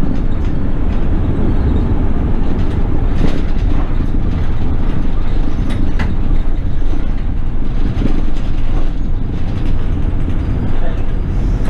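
Inside a Toei city bus cabin: steady low rumble of the bus's engine and road noise, with a few light clicks and rattles.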